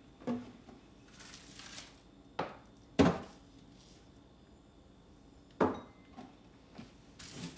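Kitchen items being handled and set down: a handful of separate knocks and clunks, the loudest about three seconds in, with short rustling or sliding sounds between them.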